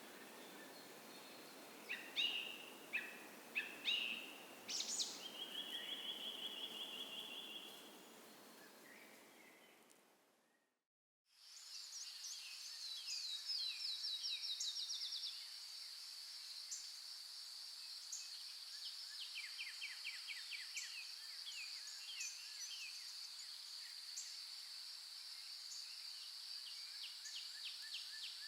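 Forest songbirds chirping and trilling over the soft hiss of a small creek. About ten seconds in, the sound fades out to a moment of silence. It comes back without the creek hiss: a steady high-pitched buzz runs under repeated bird trills.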